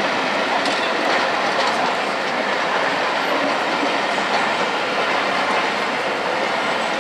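A rake of passenger coaches rolling slowly past: a steady rumble of wheels on the track, with a few light clicks as the wheels pass over rail joints.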